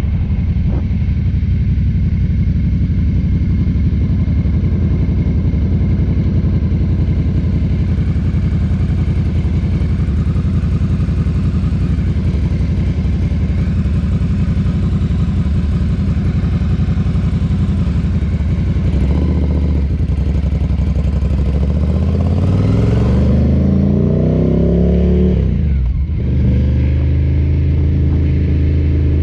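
Ducati cafe racer motorcycle engine running steadily under way, heard from the bike. About two-thirds of the way through, the revs climb in a rising pitch for several seconds, then drop off sharply, as at a gear change or closing the throttle, before it settles back to steady running.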